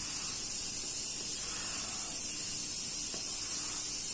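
Steady high-pitched hiss of background noise with no distinct events.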